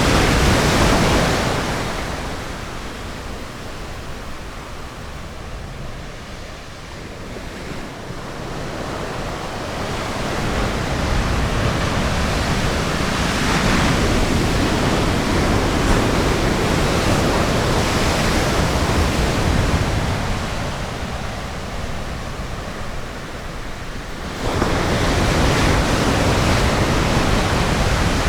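Ocean surf on a beach, waves washing in and receding in slow swells: loud at first, easing for several seconds, building again, then jumping suddenly louder near the end.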